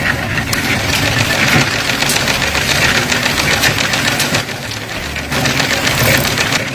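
Tractor's diesel engine running hard with a rapid knocking rattle, dipping briefly about two-thirds of the way through.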